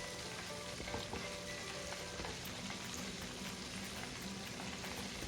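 Flour-coated chicken pieces frying in hot oil: a steady sizzle with small crackles.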